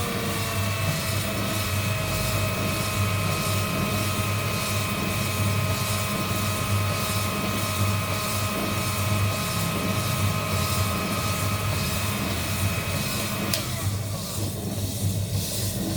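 Heat-gun coffee roasting rig running steadily: a blower motor with a steady whine over a low hum. About 13.5 seconds in the whine cuts off with a click, while the low hum goes on.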